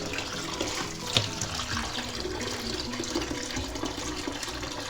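Water running from a kitchen tap into a sink, with a single knock about a second in.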